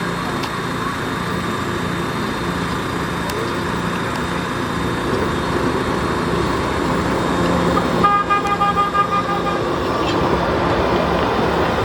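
Staten Island Railway train approaching the station with a steady rumble and hum that slowly grows louder, then sounding its horn once about eight seconds in for roughly a second and a half.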